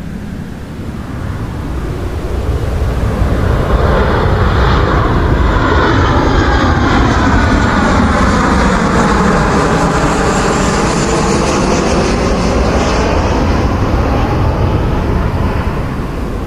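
An airliner's engines passing overhead: the roar swells over the first few seconds, holds with a sweeping, phasing sound, then begins to fade near the end.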